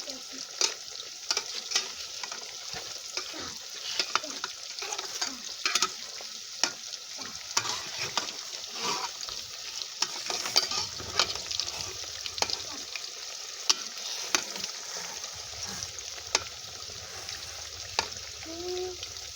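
Food sizzling in hot oil while a utensil stirs it, knocking and scraping against the pot in frequent irregular clicks.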